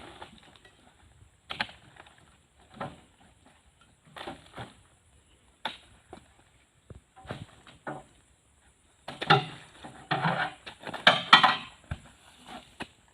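Irregular heavy thuds and knocks, with a dense run of them a few seconds before the end: oil palm fruit bunches being thrown down onto a load.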